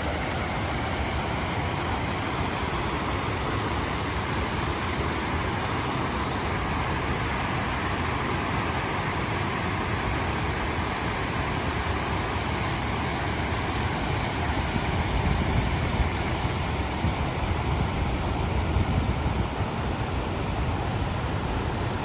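Stream flowing over rocks and small check dams, a steady rushing of water. A low rumble swells in the second half.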